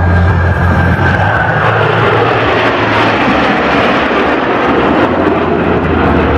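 Blue Angels F/A-18 Hornet jets passing by in a loud roar, their engine whine falling steadily in pitch as they go past. Music fades out early on.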